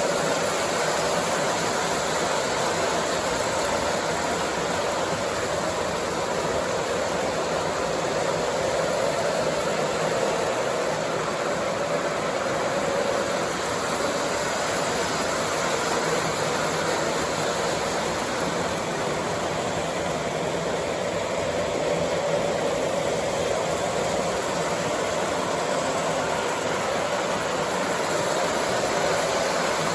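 O scale model train running on the track: a steady whirring rumble that holds level throughout.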